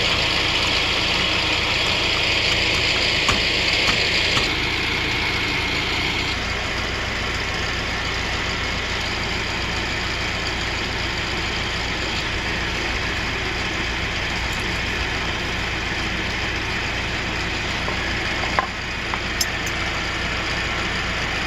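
Tractor engine idling steadily, with a higher hiss over it that drops away about five seconds in.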